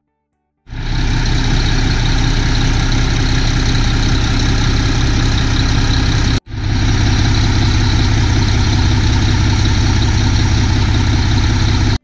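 Mack MP7 inline-six diesel engine of a quad-axle dump truck running steadily at idle, loud and even, with one brief break just past halfway.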